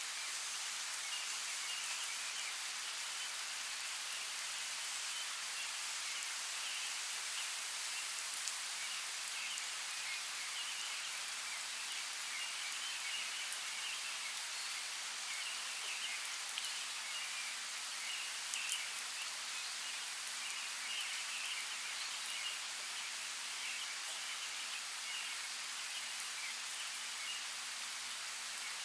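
Steady rainfall: an even hiss with scattered sharper drop ticks.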